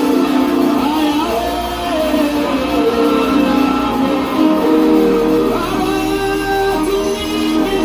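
Live church worship music: voices singing over a steady instrumental backing.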